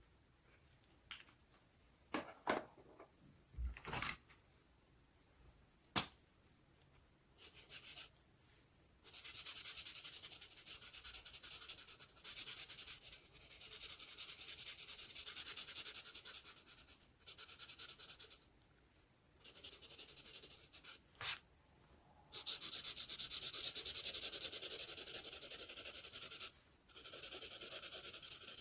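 Markers colouring on paper: long stretches of scratchy rubbing strokes with short pauses between them, starting about nine seconds in. Before that, a few sharp clicks.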